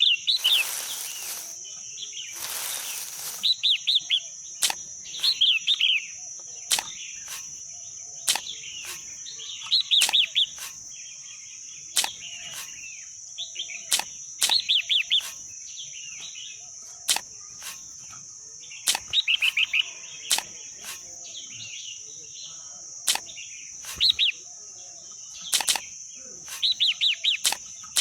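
Birds chirping in short, repeated phrases over a steady, high insect drone, with sharp clicks or taps scattered throughout. Two brief rushes of noise come in the first few seconds.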